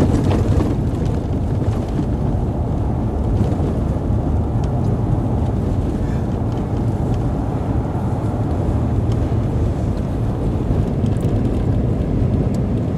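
Steady low rumble of engine and road noise heard inside the cabin of a moving Dodge, with a few faint ticks.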